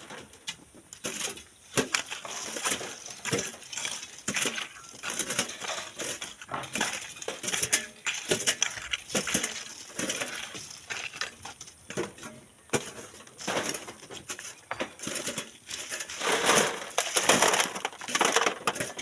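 Sand, gravel and stones crunching and clinking in a continual run of short gritty impacts, with a louder flurry near the end.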